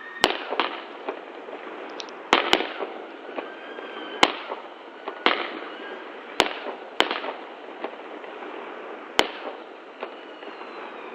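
Fireworks going off: about eight sharp bangs at irregular intervals, each followed by crackling, with faint whistles in between.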